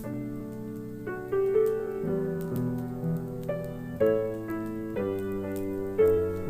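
Solo piano playing a slow, gentle ballad, with new chords struck about once a second. The faint crackle and pop of a wood fire in a fireplace is mixed in underneath.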